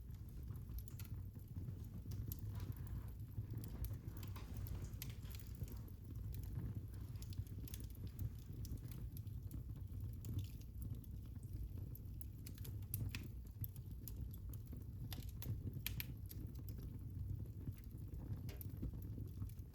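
Fire in a fireplace crackling: irregular sharp pops and snaps over a low, steady rumble.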